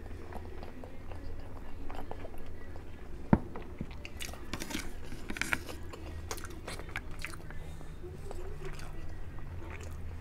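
Close-up eating of garlic butter shrimp and crab: wet chewing and crunching, with a sharp click a little over three seconds in.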